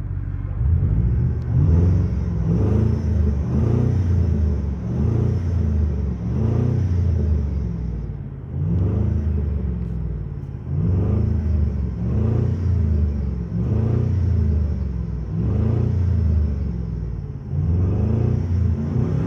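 V8 car engine being revved in repeated quick throttle blips, rising and falling roughly once a second. It eases off for a couple of seconds about halfway through, then the blips resume.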